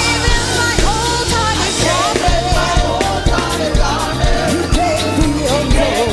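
Live gospel praise music: a lead voice sings long notes that slide and waver in pitch over a full band with a steady beat.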